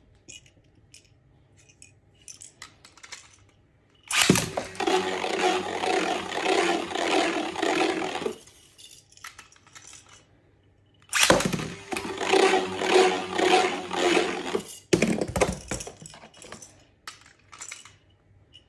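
Plastic Beyblade tops spinning and clashing in a plastic attack-type stadium, a rattling scrape with a steady hum-like tone that lasts about four seconds. A second round starts about eleven seconds in, runs about four seconds and ends in a few sharp knocks.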